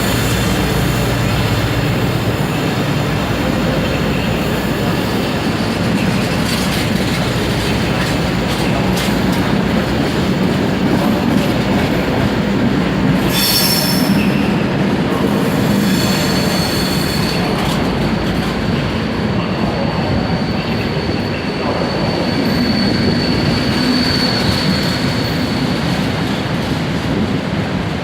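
A passenger train moving along the platform at close range, its wheels squealing on the rails. A brief hiss comes about halfway through, and a thin, high, steady squeal is held through much of the second half.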